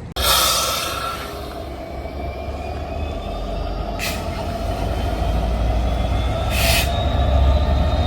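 Train running through the station with a low rumble that builds, faint rising whines, and short sharp hisses: one about a second long at the start and two brief ones later.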